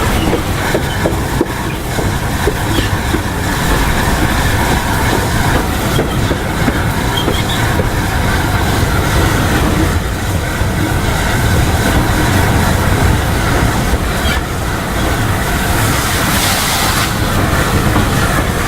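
Train running along the track: a steady, loud rumble with the clickety-clack of wheels over the rail joints, and a brief louder hiss near the end.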